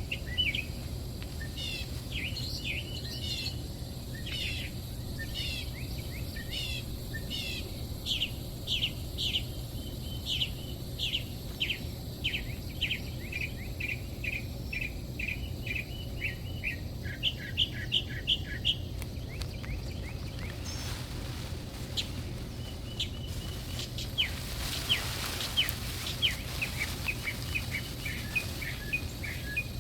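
Songbirds chirping in long runs of short, rapidly repeated calls, loudest a little past the middle. A brief burst of noise comes about three-quarters of the way in, then more chirping.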